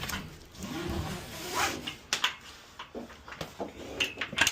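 Handling noise from a manual pallet jack and truck lift gate being worked: a scraping rub over the first two seconds, then several sharp metal clanks and knocks.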